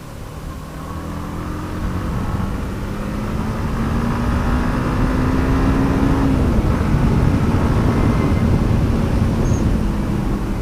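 Yamaha MT-15's 155 cc single-cylinder engine pulling under acceleration, its pitch climbing steadily for about six seconds, then falling back suddenly, with wind and road noise growing louder as speed builds.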